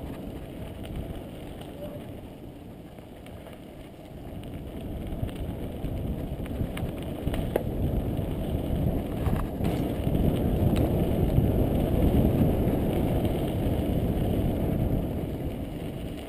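Mountain bike rolling over dirt singletrack, heard as a rumble of tyre and trail noise mixed with wind on the microphone. It grows louder from about four seconds in as the ride picks up, with a few sharp clicks and rattles from the bike.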